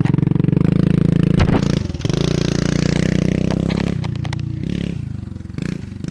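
Dirt bike engine running close by at low, steady revs, with a few clicks and scrapes. It drops in level about two seconds in and then slowly fades.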